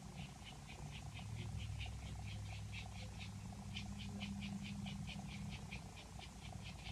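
Rhythmic high-pitched chirping from a calling animal, short pulses repeating about five or six times a second, over a faint low steady hum.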